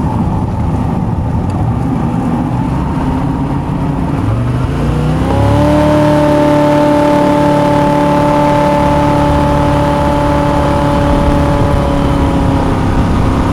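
The 350 V8 of a home-built 14-foot jet boat running, its pitch rising about four seconds in as it speeds up and then holding steady at a higher speed.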